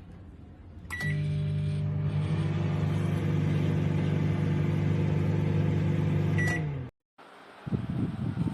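Microwave oven running: a short beep about a second in, then a steady electrical hum of the magnetron and transformer. A second beep sounds just before the hum cuts off. Irregular low rustling follows near the end.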